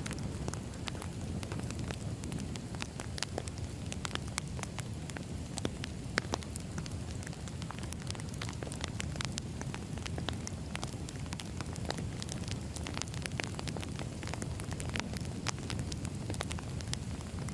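Wood fire burning steadily, with a low continuous rumble and frequent irregular sharp crackles and pops from the burning logs.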